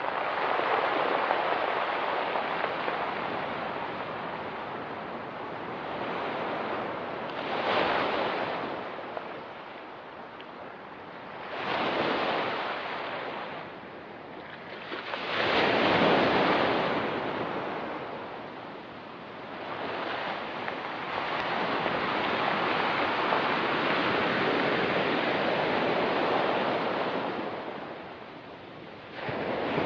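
Ocean waves breaking on a rocky pebble beach: a continuous wash that swells with each wave, about every four seconds at first, then into a longer sustained surge, falling back between.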